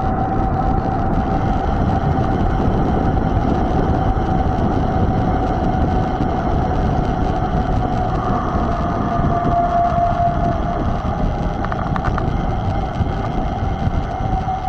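Steady wind rumble on the microphone and tyre noise from a mountain bike being ridden, with a thin steady whine running throughout.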